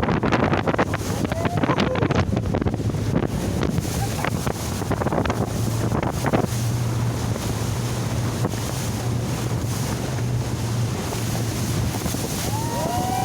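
Motorboat running with a steady low engine hum under rushing water, while wind buffets the microphone in gusts, strongest in the first half.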